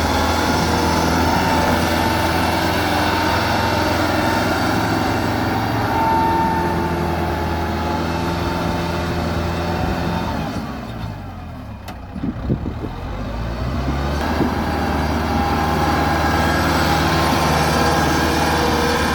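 Tractor engine running steadily while working in deep mud. About halfway through it drops in speed and goes quieter for a few seconds, then climbs back to its working speed.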